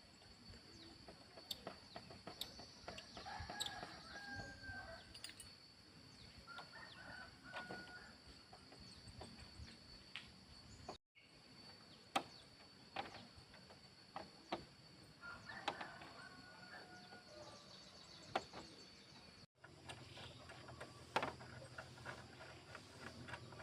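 Chickens calling now and then in the background, several short pitched calls, with scattered sharp clicks and taps between them.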